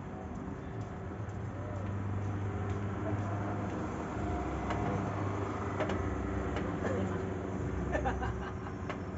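A vehicle engine running steadily with a low hum that shifts in tone about four seconds in, with a few faint clicks.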